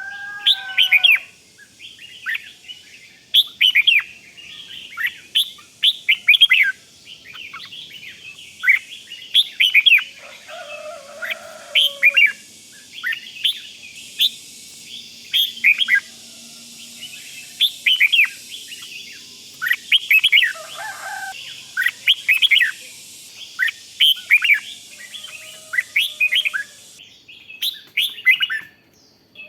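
Red-whiskered bulbul giving its rapid 'rik' chirping calls: short, sharp, high notes repeated in quick bursts all through, with a couple of lower whistled phrases, one around 11 seconds in and one around 21 seconds in.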